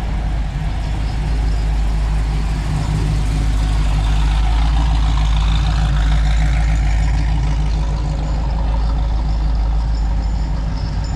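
A motor vehicle's engine running with a deep, steady rumble. It grows louder about a second in and peaks in the middle, with a tone that rises and falls.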